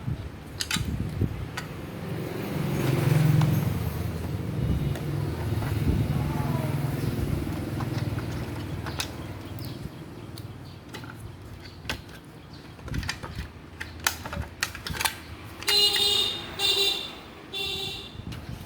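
A motor vehicle, likely a passing motorbike, rumbles by, swelling and fading over the first half. It is followed by scattered clicks and knocks, and three short pitched toots near the end.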